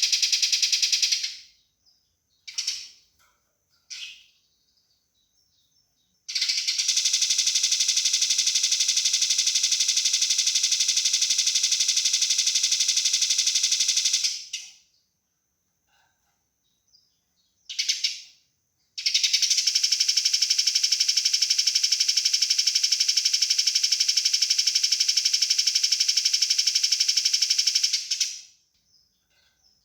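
Eurasian tree sparrows' fighting calls: fast, densely packed, high chattering in two long runs of about eight and nine seconds, with a few short bursts before and between them.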